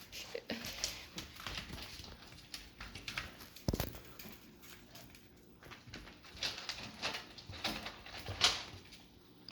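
Chihuahua puppies moving about the play pen: scattered soft scratching and rustling, with a single low thump about four seconds in.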